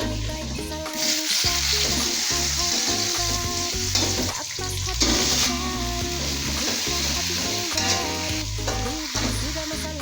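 Tofu and bean sprouts sizzling in hot oil in a pan as they are stir-fried, the sizzle swelling about a second in. Background music plays underneath.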